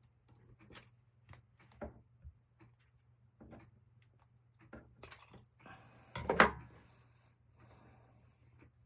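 Scissors cutting through a zipper, with small clicks of handling, and a louder clack about six seconds in.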